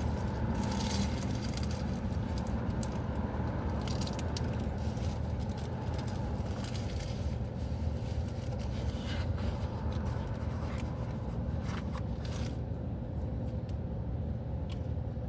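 Steady low hum of a vehicle heard from inside the cabin, with scattered short scrapes and clicks of things being rummaged through and handled, as when digging out a pair of glasses.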